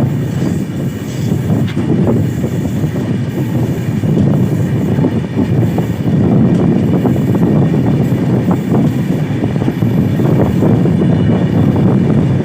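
Wagons of a long train rolling past: a steady, loud rumble with a rapid, continuous clatter of wheels on the track.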